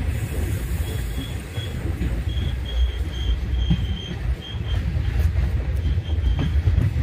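Passenger train running along the track, heard from its open doorway: a heavy, steady rumble of the coaches' wheels and running gear, with a faint high whine that comes and goes through the middle.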